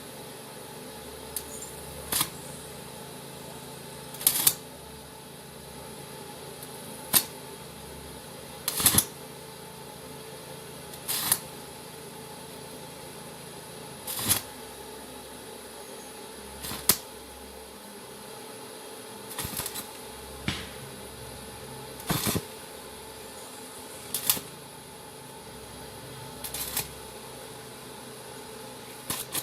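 Electric welder laying short tack welds to close up a hole in the metal: a brief crackling burst of arc every two seconds or so, a dozen in all, over a steady hum.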